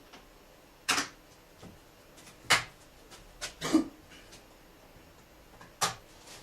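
Tools and car parts knocking and clattering during reassembly work: a handful of separate sharp knocks, a couple in quick succession about halfway through, with quiet between them.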